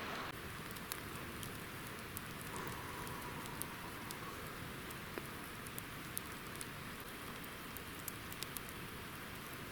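Campfire crackling: a steady hiss of burning wood with irregular sharp pops and snaps, a few each second.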